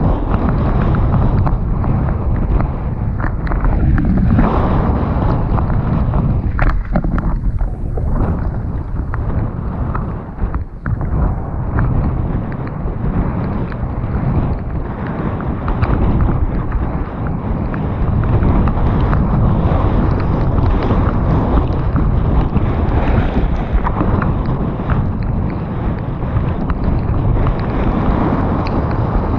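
Loud, steady wind buffeting on the microphone of a camera riding along on a mountain bike at descent speed, with scattered knocks and rattles from the bike over rough wet trail.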